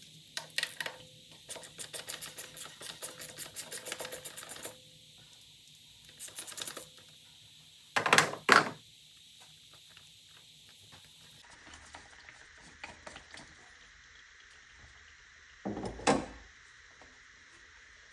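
Ratchet wrench clicking in quick, even runs, one of about three seconds and a shorter one a little later, followed by two loud knocks and another knock near the end.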